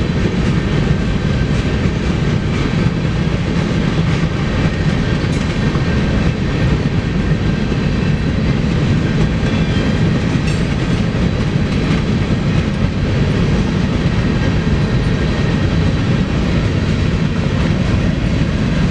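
Freight train rolling past on the tracks: a loud, steady rumble of wheels on rails that holds without a break.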